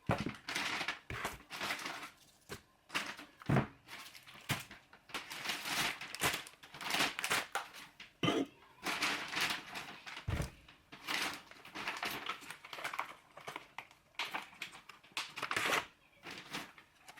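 Irregular rustling and crinkling of handled material, with a couple of dull knocks.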